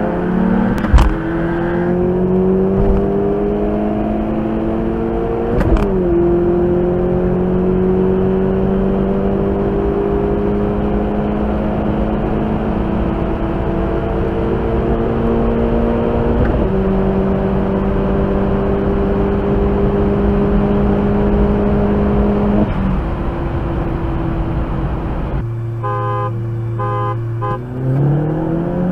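Opel Corsa OPC's turbocharged four-cylinder engine accelerating hard through the gears, heard from the cabin. The engine pitch climbs in each gear and drops at shifts about a second in, about six seconds in and about sixteen seconds in, then falls away as the throttle is lifted. Near the end a short run of repeating tones is heard, then the engine pulls up again.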